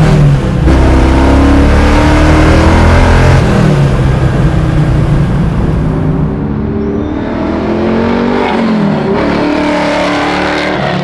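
Stroked 427 cubic-inch LS3 V8 in a 1969 Camaro accelerating hard in second gear, its revs climbing. Near the end the car passes by and its exhaust note drops in pitch. The owner says the engine is not making full power because it has not yet had a proper tune.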